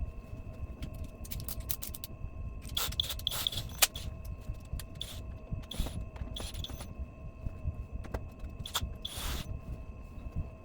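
Scattered clicks, taps and short scrapes of parts and tools being handled while a flat-screen TV is put back together around its repaired main board, over a low rumble and a faint steady whine.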